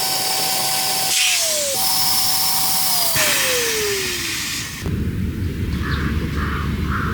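A small electric motor whirring with a rushing hiss. Its whine drops in pitch as it winds down twice, briefly about a second in and more slowly about three seconds in, and it stops near five seconds. Outdoor ambience follows, with four short chirps near the end.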